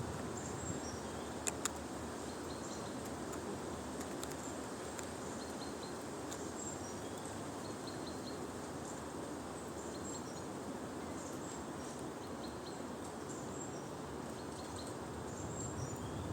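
Outdoor ambience: a steady background noise with small birds giving short high chirps again and again, often in quick runs of three. A few sharp clicks come about a second and a half in and again near four seconds.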